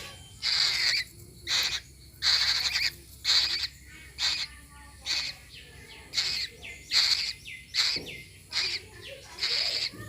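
A nestling bird giving harsh, hissing begging calls over and over, about one call a second, each short and raspy.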